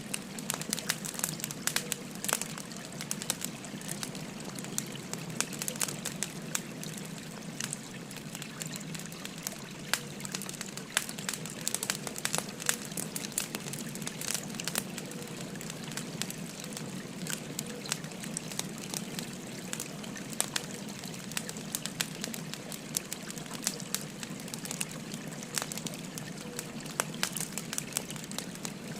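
Wood fire crackling, with many sharp irregular pops and snaps, over the steady rushing babble of a river.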